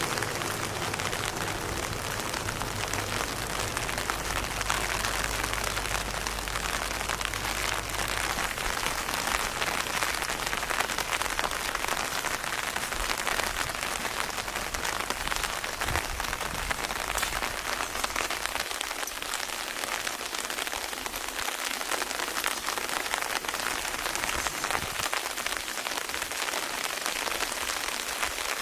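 Steady rain falling on a surface: a dense, even hiss made of countless small drop ticks. A low hum sits beneath it for the first several seconds, then fades out.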